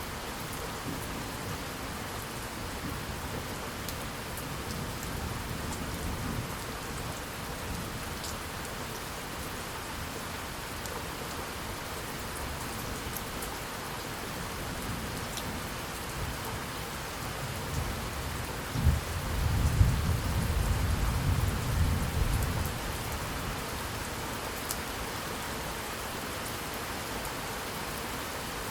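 Steady heavy rain with a faint low rumble of thunder early on, then a louder thunder roll about two-thirds of the way through: a sharp crack followed by several seconds of low rumbling that dies back into the rain.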